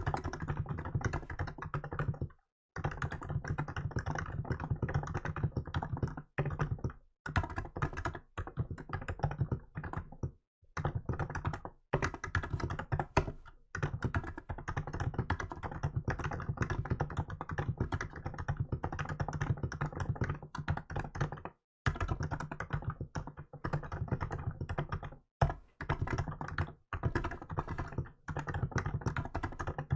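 Fast, continuous typing on a Hansung GK868B electrostatic capacitive keyboard fitted with 'milk' keycaps, a steady stream of soft key strokes broken by several short pauses.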